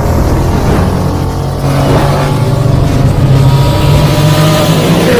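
A loud engine running steadily, its pitch rising a little partway through.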